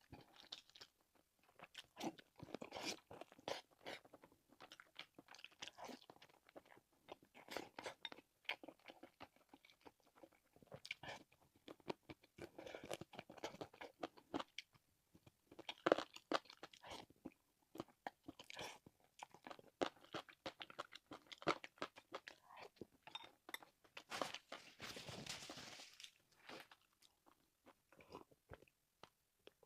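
A person eating braised meat close to the microphone: irregular chewing and biting with many small crunchy clicks and wet smacks, plus a hiss about two seconds long near the end.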